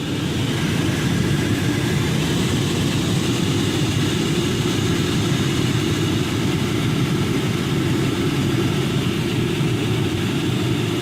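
Motor of a VW Passat's diesel auxiliary heater running steadily, a strong low hum with a faint high whine over it. The motor, which had been seized, has been freshly greased and now turns freely.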